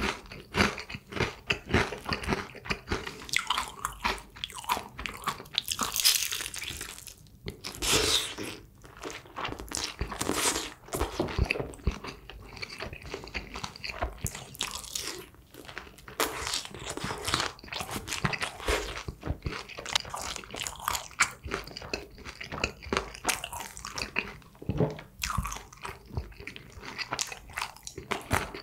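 Close-up crunching and chewing of honey-glazed Kyochon Honey Combo fried chicken, its crisp coating crackling in irregular bites and chews, with louder crunches every few seconds.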